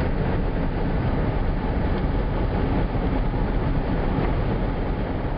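Steady road noise inside a moving car at highway speed: tyres and engine as a continuous low rumble and hiss.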